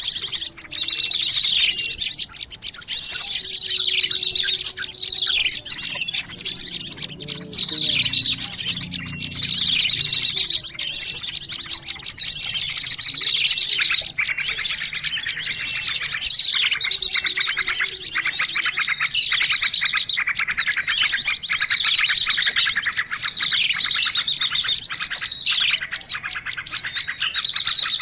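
Many small birds chirping and trilling without pause: fast, high-pitched trills overlaid with short falling chirps, a lure call recording used to attract small birds.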